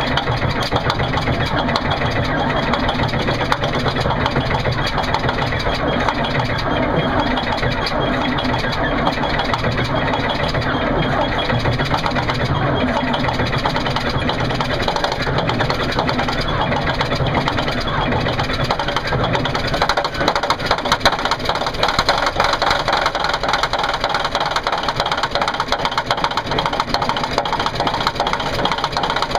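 Caterpillar diesel engine being cranked over for a cold start at about two below zero, with thick 30-weight oil and only four of its glow plugs working, so it is slow and hard to start.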